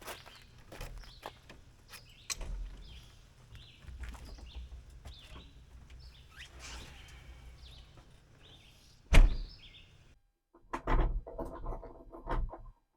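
Small birds chirping over a low outdoor rumble, with scattered light clicks and one loud thump about nine seconds in. After that the sound cuts out briefly and a short, different burst follows.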